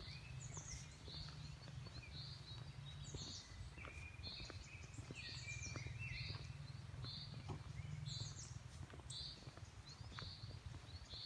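Several forest birds calling and chirping over and over, short notes with some quick falling chirps, against a steady low rumble.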